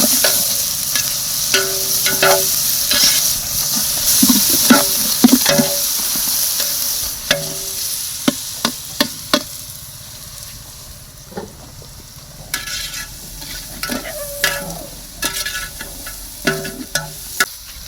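Food sizzling in hot oil in a cooking pot for biryani while a metal ladle stirs it, scraping and clinking against the pot. The sizzle is loud for the first several seconds and then dies down, leaving mostly separate ladle scrapes and clinks, some ringing briefly.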